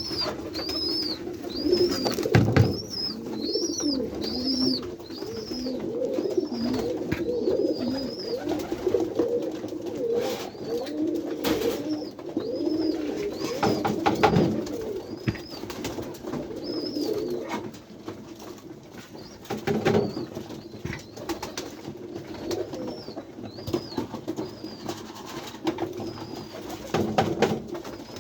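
A loft full of domestic pigeons cooing together, many overlapping low calls. A high, thin chirp repeats about twice a second in runs, and a few sharp knocks sound at intervals.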